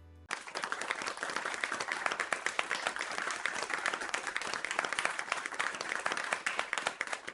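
Crowd applauding: dense clapping that starts abruptly just after the opening and fades away at the end.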